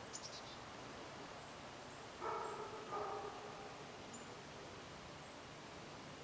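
A bird gives a quick descending run of four or five very high notes at the start. About two seconds in come two louder, lower-pitched animal calls, roughly a second apart, and a few faint high chirps follow.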